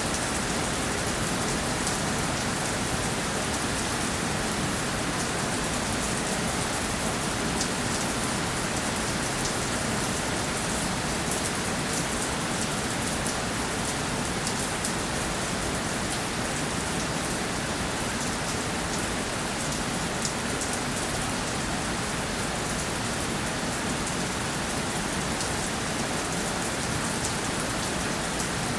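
Steady rainfall: a dense, even hiss of rain with many fine drop ticks on a surface.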